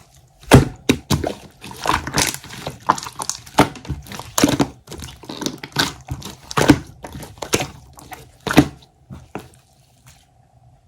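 Clear slime being squished and pressed by hand, giving irregular sticky pops, clicks and crackles that thin out and stop about a second before the end.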